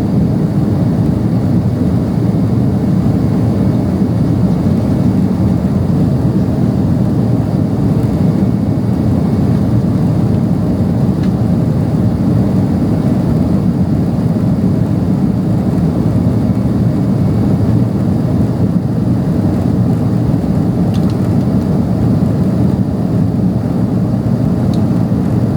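Steady cabin noise of a Boeing 767-300ER climbing: a deep, even rush of engine and airflow noise heard from a window seat, unchanging throughout.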